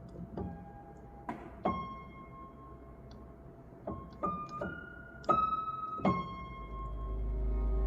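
Piano playing a slow melody of single notes, each struck and left ringing. Near the end a soft, sustained ambient music bed swells in underneath.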